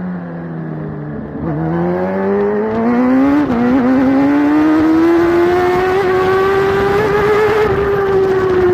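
Kawasaki ZX-10R superbike's inline-four engine at racing speed, heard from on the bike. The note falls as the bike slows, then climbs hard from about a second and a half in. It dips briefly as it shifts up a gear a couple of seconds later, keeps rising, and eases off slightly near the end.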